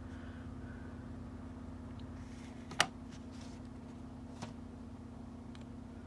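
Steady low electrical hum, with one sharp click about three seconds in and a fainter tick about a second and a half later, as small craft supplies are handled on the desk.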